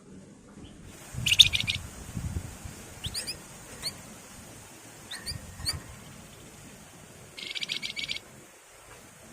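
Wergan jawa (Javan fulvetta) calling: two short, rapid buzzy trills, about a second in and again near the end, with several thin, quick upslurred notes between them.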